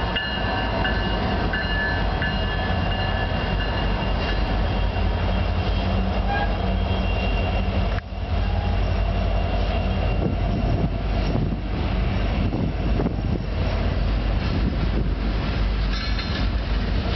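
Diesel-powered freight train (GE AC45CCTE and EMD SD70-series locomotives leading) passing close by: a steady heavy rumble of engines and steel wheels on rail. Thin high tones sound in the first few seconds, and the rumble dips briefly about halfway.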